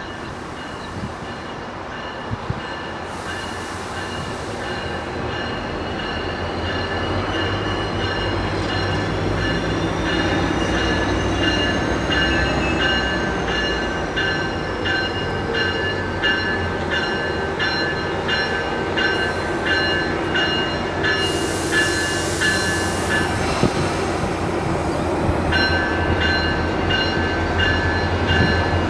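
MARC Penn Line commuter train pulling into the station and slowing down, its rumble growing louder, with steady high-pitched brake and wheel squeal pulsing in a regular pattern and a faint whine that rises and then falls.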